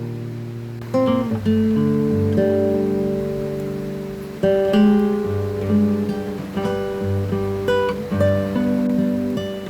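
Background music: acoustic guitar playing slow strummed chords and plucked notes, each chord left to ring.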